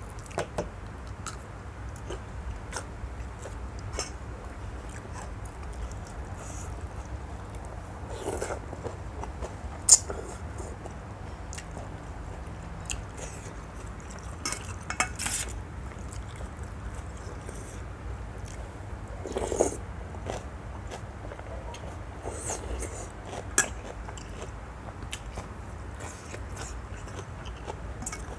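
A person eating a bowl of noodle soup: chewing and biting, with scattered short clicks and knocks and a few louder ones spread through it.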